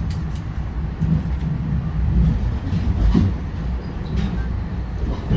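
Running noise of an NJ Transit Comet passenger coach in motion, heard from inside the cabin: a steady low rumble of wheels on rail, with a few faint scattered clicks.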